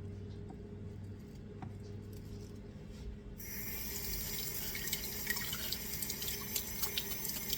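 Kitchen faucet turned on about halfway through, water running and splashing into the sink as fresh mint is rinsed.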